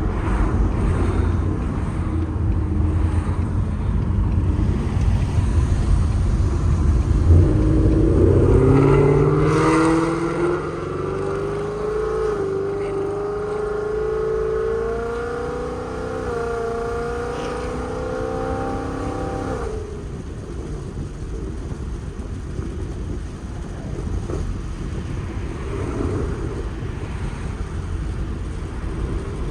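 Straight-piped Ford Mustang GT's 5.0 V8 exhaust with long-tube headers. A low rumble while cruising turns, about seven seconds in, into a hard acceleration whose pitch climbs for about twelve seconds. The sound cuts off sharply as the throttle lifts, and a low cruising drone follows.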